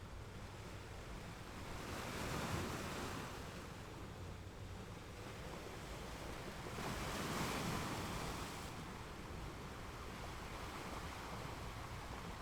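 Ocean waves breaking on the shore: a steady wash of surf, with two waves swelling and breaking, one about two seconds in and one about seven seconds in.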